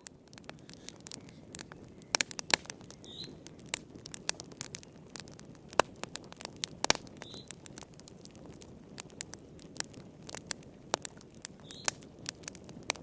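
Wood fire crackling in a fireplace: irregular sharp pops and snaps over a low, steady rush of burning.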